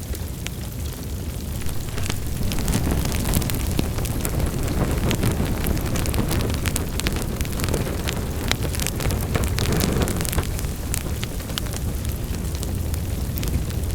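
Wood fire crackling: a steady low rumble of flames with frequent sharp pops and snaps of burning wood, swelling a little over the first couple of seconds.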